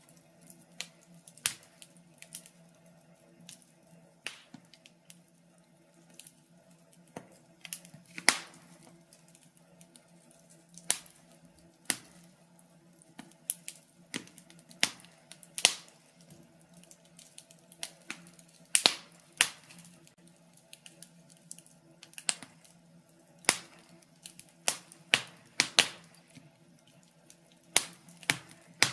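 Wood fire in a fireplace crackling, with irregular sharp pops, some loud, about one every second or so, over a faint steady low hum.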